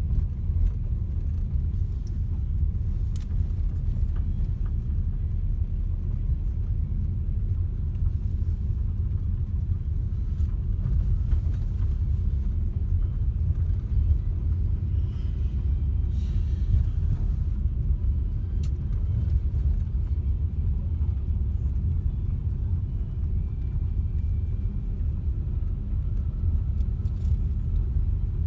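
A car on the move: a steady low rumble of road and engine noise, with a few faint clicks.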